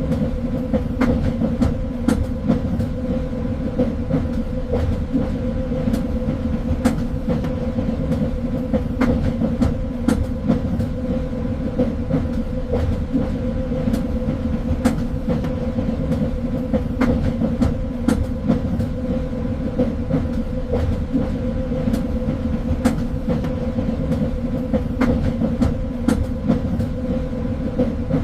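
Train running on rails: a steady low rumble with an even hum, and irregular clicks and clacks of the wheels over the track.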